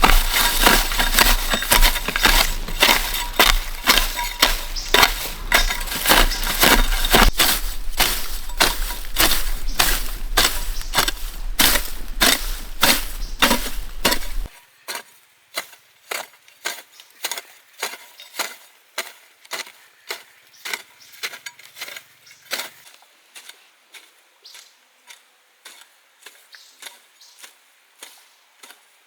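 Regular chopping strikes of a blade into bamboo, about two to three a second. For the first half they come over a loud, dense background with a low hum, which stops abruptly about halfway; after that the strikes go on alone and grow fainter.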